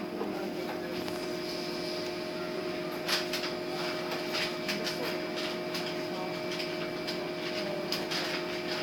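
Steady hum of a bus heard from inside the cabin, with light rattling clicks coming in from about three seconds in.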